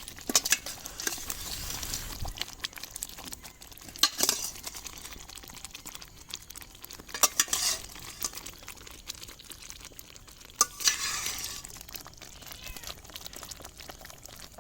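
A spoon scraping and clinking against a pan as fried chicken pieces are stirred into sizzling ghee-roast masala. Several sharp clinks stand out over a steady frying hiss.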